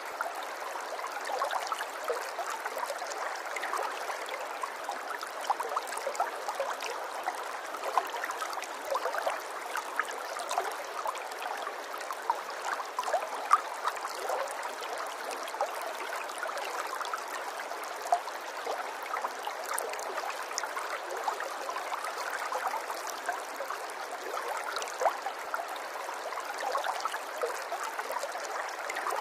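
Running water flowing and trickling steadily, with many small, brief plinks and splashes throughout.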